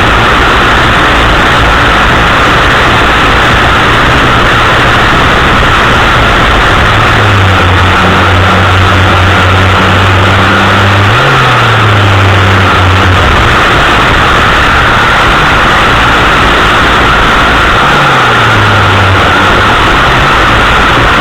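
Chainsaw engine on a pole extension running close to the microphone, a loud steady drone whose pitch dips and rises a few times.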